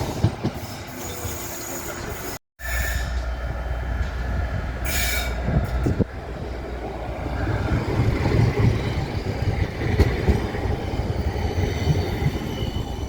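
Tram running along street track with a low rumble, its wheels giving a thin high squeal at times. The sound cuts out completely for a moment about two seconds in.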